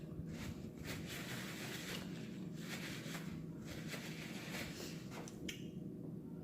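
Close-up eating sounds of someone working through a meal of snow crab legs: a run of short, soft wet clicks and smacks over a steady low hum.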